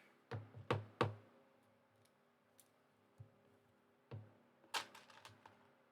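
Plastic Lego pieces clicking and knocking as they are handled and pressed together: three sharp clicks in the first second, then a few more scattered clicks later.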